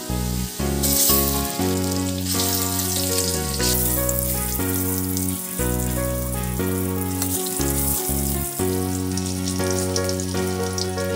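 Boiled eggs and potato cubes sizzling in hot oil in a wok, the hiss strongest about a second in, under background music.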